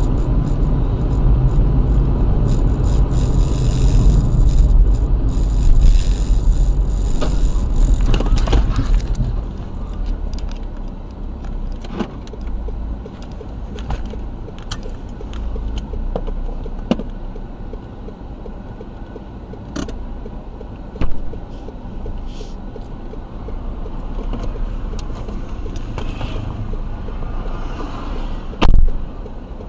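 Car driving noise: a heavy low rumble for the first nine seconds, then lighter steady road noise broken by scattered knocks, with a loud thump near the end.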